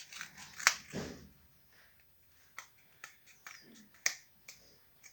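Scissors cutting cardboard: a series of short, sharp snips, the loudest about a second in and again near the end.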